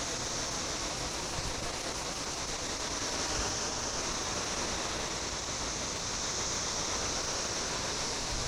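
Steady hiss of water spraying from a hose onto a paver patio.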